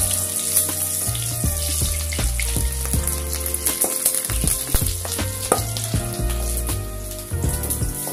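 Boiled eggs sizzling as they fry in hot oil in an aluminium kadai, with a wooden spatula scraping and knocking against the pan now and then. Background music with a steady bass line plays underneath.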